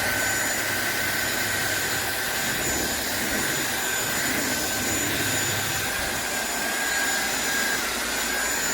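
SunSare X7A cordless stick vacuum running steadily, a constant motor whir with a high whine.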